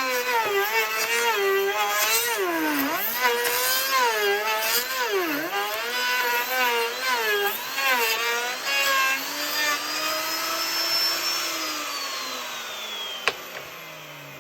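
Electric wood router running at speed and cutting a tenon in a wooden frame piece, its whine dipping in pitch again and again as the bit takes load. About eleven seconds in it is switched off and winds down with falling pitch, and a sharp knock comes near the end.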